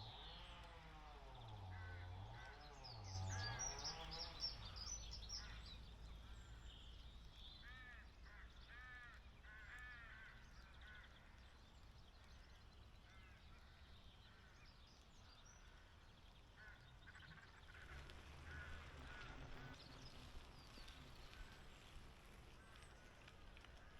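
Faint birds calling outdoors, a few short repeated calls in runs, over a low background hiss.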